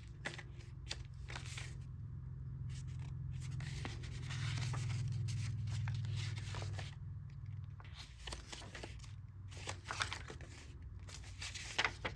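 Paper rustling and scraping in short irregular strokes as the pages and tucked cards of a handmade paper-and-fabric junk journal are handled and turned, over a steady low hum.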